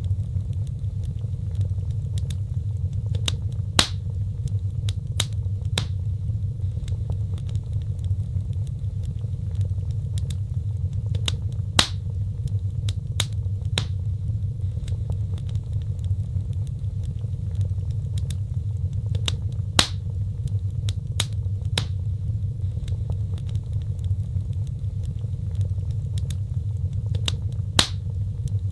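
Fireplace fire crackling: a steady low rumble of flames with frequent small sharp crackles and snaps, and a louder pop about every eight seconds.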